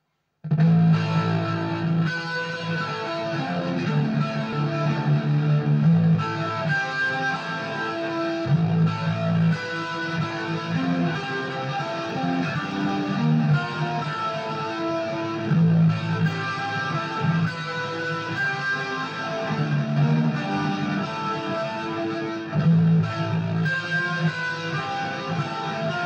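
Music: a guitar playing chords and notes in phrases that recur, starting abruptly about half a second in.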